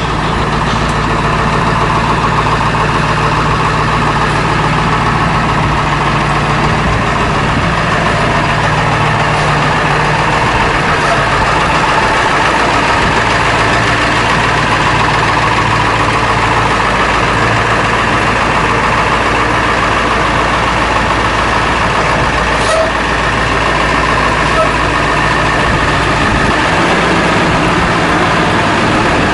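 2001 International 4700 dump truck's 7.3-litre V8 diesel running steadily, with a slight change in its note about halfway through.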